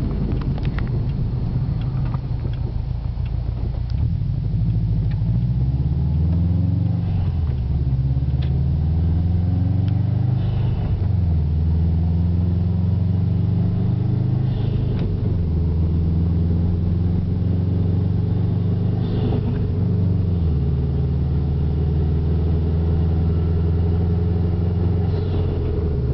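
Subaru WRX STI's turbocharged flat-four engine through a catless exhaust, driven gently: the engine's low rumble rises in pitch under light acceleration and drops back at each upshift, four times, then settles into a steady low drone while cruising.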